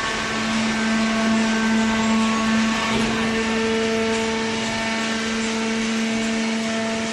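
Hydraulic cardboard baler running: a steady motor-and-pump hum with a slight shift in tone about three seconds in.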